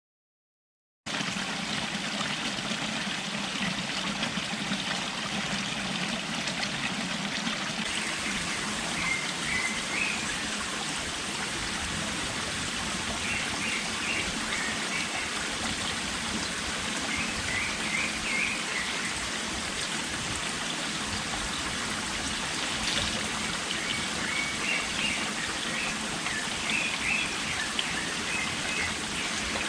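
Steady rush of running water, starting about a second in, with a small bird chirping in short phrases now and then.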